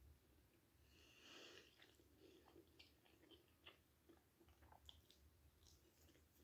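Faint, close-up chewing of a breaded fried chicken goujon: scattered soft mouth clicks, with a short breathy hiss about a second in.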